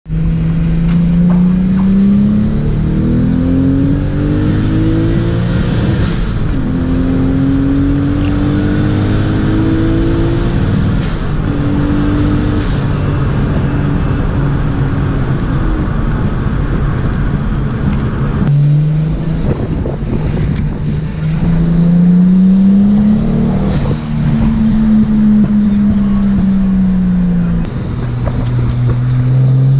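Turbocharged 2-litre 1G-FE inline-six engine with a straight-piped exhaust, accelerating hard through the gears: the note climbs and drops back at each shift several times, holds steady for a few seconds, falls away sharply as the throttle is lifted, then pulls up through the revs again. A faint high whistle rises with the revs during the first pulls.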